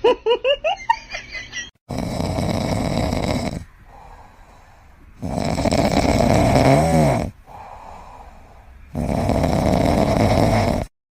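A pet snoring loudly: three long, rasping breaths at an even pace, the middle one ending in a wavering whine. It is preceded by a quick run of high squeaks.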